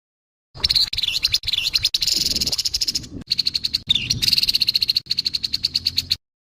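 Grey-headed babbler giving its harsh, rasping chatter: a fast rattle of buzzy notes, about ten a second, in a few long runs that stop about six seconds in.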